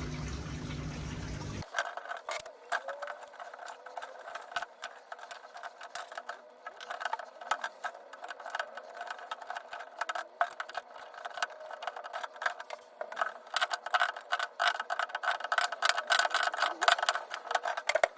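A washing machine drain pump hums steadily for a couple of seconds and then cuts off abruptly. What follows is a long run of dense crackling and clicking from tape being unwound and wrapped around the split plastic waste pipe, growing busier near the end.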